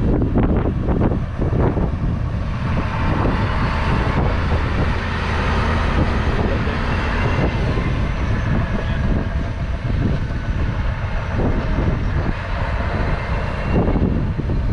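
A train passing at speed: a loud, steady rumble and rush.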